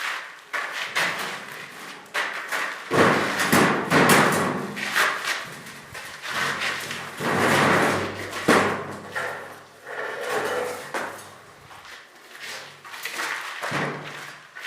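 Repeated hammer knocks, thuds and scraping as an old cemented-in door is broken out and worked loose, with several longer rattling, grinding stretches between the blows.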